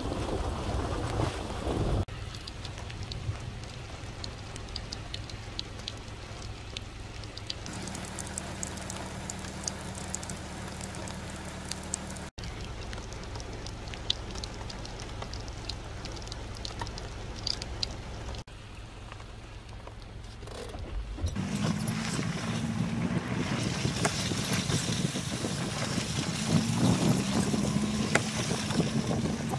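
Wind rumbling on the microphone during steady rain, with scattered small ticks of raindrops; the noise grows fuller and louder in the last third.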